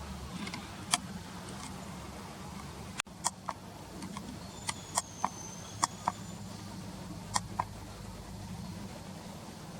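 Small birds: a scattering of sharp, short ticks and one thin, high whistle about five seconds in, over a steady low hum.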